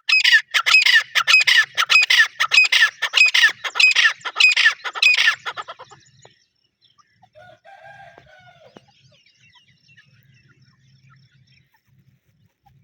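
Grey francolin calling: a fast run of loud, repeated call notes, about three a second and each dropping in pitch, that fades out after about five seconds.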